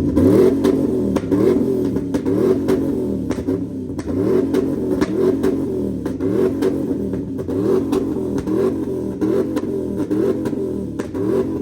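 V8 truck engine with a new full exhaust system being revved again and again in quick throttle blips, about one a second, each rising and dropping back. Sharp pops and crackles come from the exhaust between blips as it spits little balls of fire.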